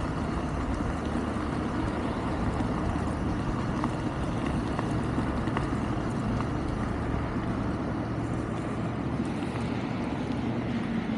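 Steady riding noise of a Wolf King GT Pro electric scooter travelling at cruising speed: an even rush of road and air noise with no changes.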